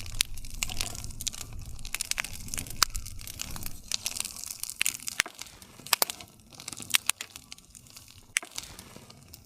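Wood campfire crackling: irregular sharp snaps and pops of burning wood, a few louder ones standing out, over a low soft rumble of flame.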